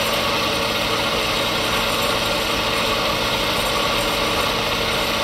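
1989 Comet 2 HP three-phase vertical milling machine running steadily, its motor and step-pulley spindle head giving an even hum and whir with no changes.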